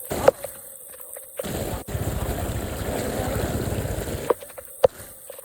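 A sharp knock, then about three seconds of rushing, splashing water, ending in two sharp clicks.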